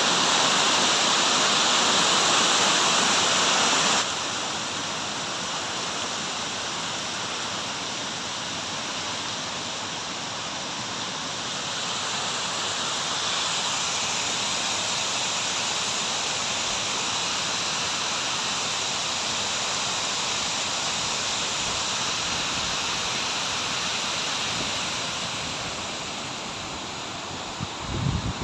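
Steady rushing water, with an abrupt drop in level about four seconds in.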